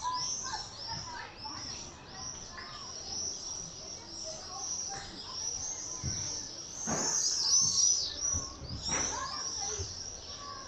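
A flock of common swifts screaming: many shrill, high screams overlapping continuously, swelling louder about two thirds of the way through.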